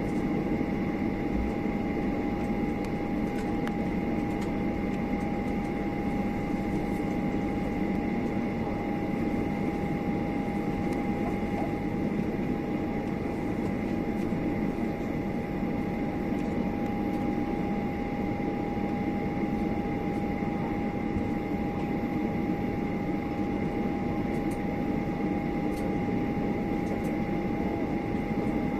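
Steady cabin noise inside a Boeing 737-800 taxiing after landing: the idling engines and the air-conditioning give an even rumble with a steady high whine.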